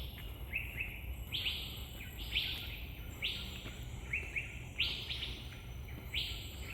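A bird calling repeatedly in forest, a series of short, harsh notes that each slide downward in pitch, coming about once or twice a second.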